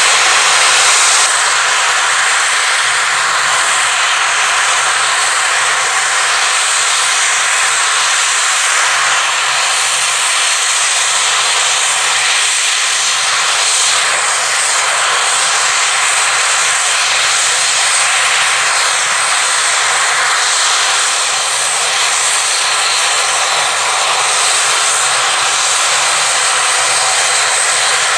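Aircraft engines running steadily at close range: a loud, even hiss with little change in level.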